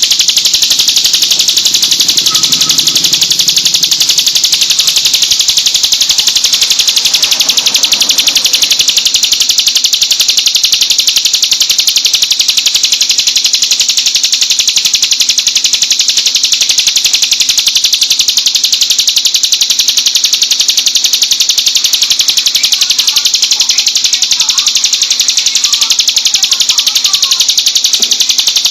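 Ciblek gunung (a prinia) singing its rapid-fire 'tembakan' song: a loud, continuous, high trill of very fast repeated notes that never breaks.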